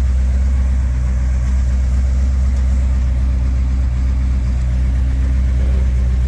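1969 Chrysler New Yorker's 400 V8 idling steadily, warmed up after a drive, its low exhaust note coming through an H-pipe and Dynamax Ultraflow mufflers dumped ahead of the rear differential.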